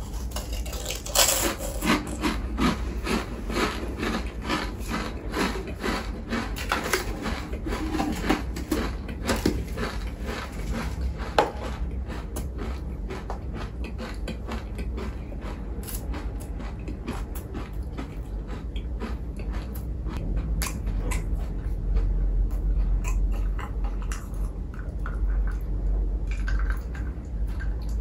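A person biting and chewing food close to the microphone: a quick run of crisp clicks, dense through the first half and sparser later, over a low steady hum.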